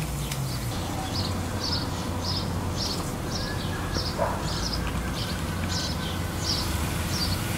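A small bird chirping over and over, short high chirps at about two a second, with a low steady rumble underneath and one brief lower call about four seconds in.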